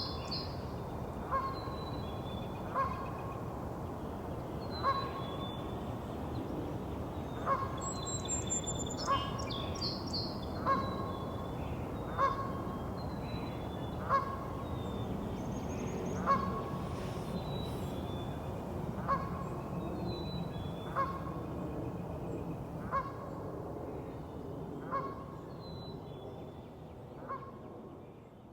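Canada goose honking repeatedly, a short call every second and a half to two seconds, with higher songbird trills now and then over a steady low background rumble. The recording fades out near the end.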